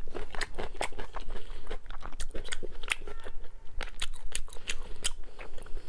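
Close-miked chewing of braised pork belly: a run of sharp, irregular wet clicks and smacks from the mouth, several each second.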